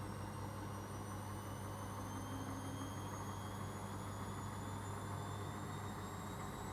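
Arçelik washing machine in its spin cycle: a steady low hum with a high motor whine slowly rising in pitch as the drum speeds up.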